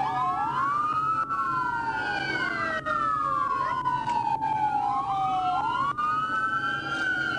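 Several police sirens on wail at once, their slow rising and falling sweeps overlapping out of step, over a steady low hum.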